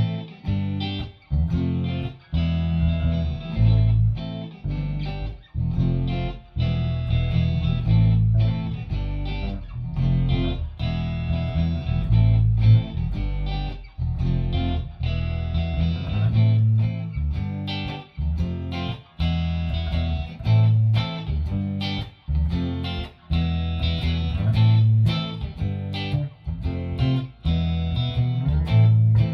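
Guitar music: a shuffle played on guitar over a strong repeating bass line, with short stops between phrases.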